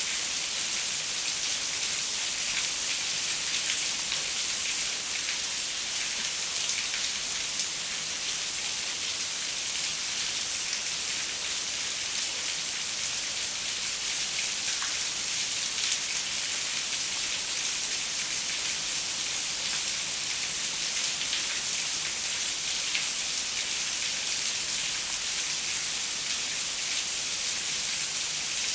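Steady rain pattering on a window pane, an even hiss with scattered individual drop ticks.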